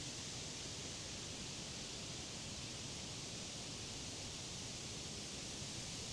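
Wind rustling through the leafy crowns of summer trees: a steady, even hiss with no marked gusts.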